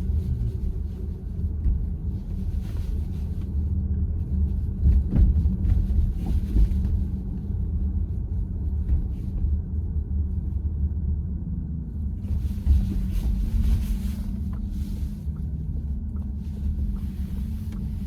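Steady low road and tyre rumble heard inside the cabin of a moving VW ID.4 electric SUV, with no engine note.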